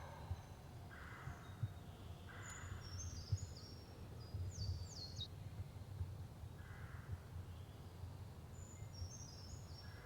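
Wild birds calling: two quick runs of high, falling songbird notes, and a few separate rougher, lower calls. A steady low rumble runs underneath.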